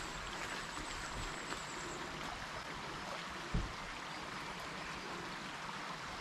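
Steady rush of a forest stream's running water, with one short low thump about three and a half seconds in.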